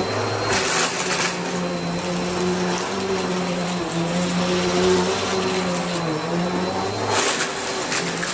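Bissell vacuum cleaner running steadily with its motor hum, sucking up small rubber bands. There are two brief louder rushes of sound, about half a second in and again near the end.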